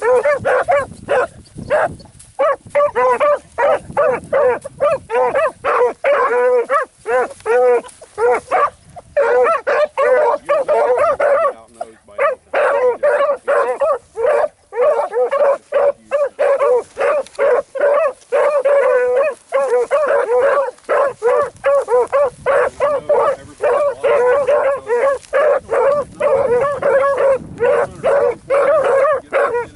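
A pack of hounds baying almost without pause as they run a track, several dogs giving voice at once with rapid, overlapping barks, with brief lulls near the middle.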